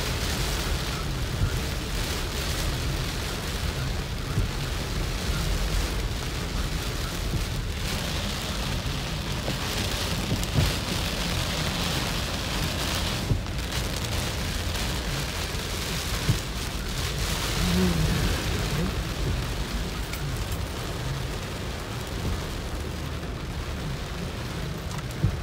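Heavy rain beating on a car's roof and windshield, heard from inside the cabin: a steady hiss with a few sharper single taps, over a constant low rumble.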